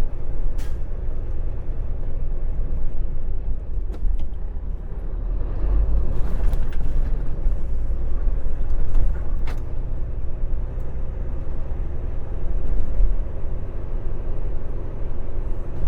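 Semi truck's diesel engine running as the truck moves slowly: a steady deep rumble, with a few short sharp clicks along the way.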